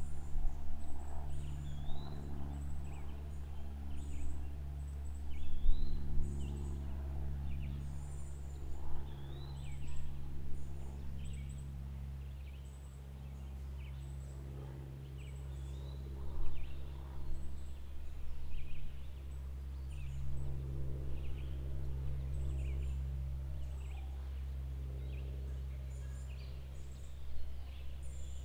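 Outdoor ambience of birds chirping with short, repeated upswept calls, over a steady low hum.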